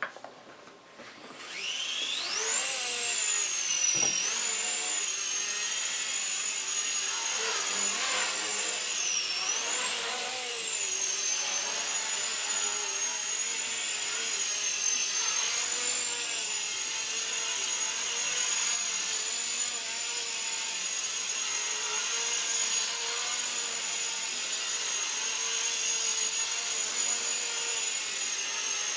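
Walkera CB100 micro RC helicopter's electric motors and rotors spinning up with a rising high whine about a second and a half in. The whine then wavers in pitch with the throttle for several seconds before holding steady.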